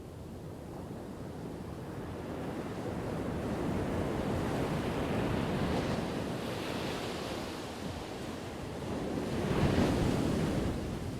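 Ocean waves breaking on a shore: the surf swells and crashes twice, the second crash, about ten seconds in, the louder.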